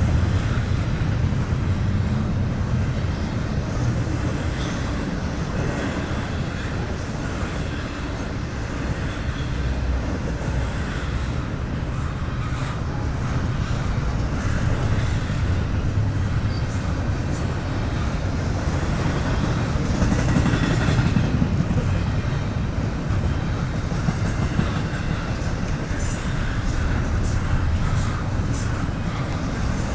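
A train rolling past on the tracks: a steady rumble of wheels on rail, with a run of sharper clicks near the end.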